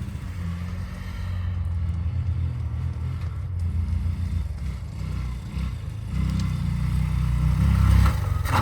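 Small 150cc four-stroke ATV engine running and revving, growing louder toward the end, followed by a brief clatter.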